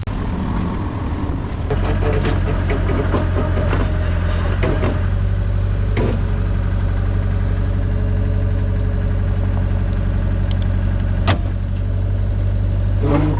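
A large engine running steadily at idle, growing louder about two seconds in, with a couple of short knocks over it.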